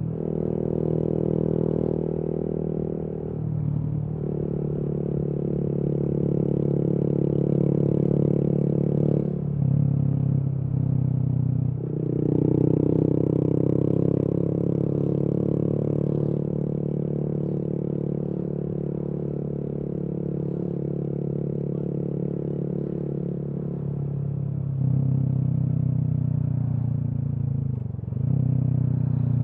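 Honda MSX/Grom 125's single-cylinder four-stroke engine running through a Kemimoto aftermarket exhaust while riding. The revs rise and briefly dip several times, with a steadier stretch of cruising in the middle.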